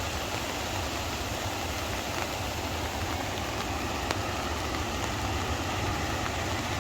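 Sea surf: big waves rushing and breaking on the beach, a steady roar of water with a low rumble beneath.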